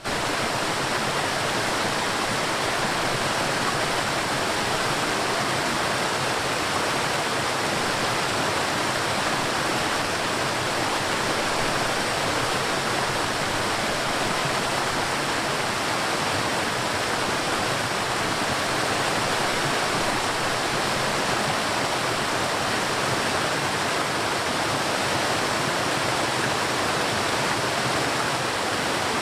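River water flowing and rushing, a steady, even rush of water with no breaks.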